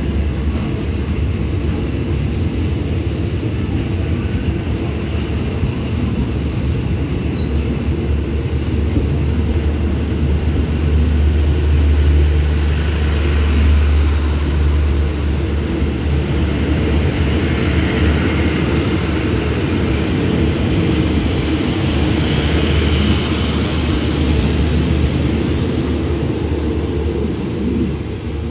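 Passenger carriages of a departing express train rolling past, a steady low rumble of wheels on rail. It grows louder midway, with hiss and rattle on top, and eases off near the end as the last car goes by.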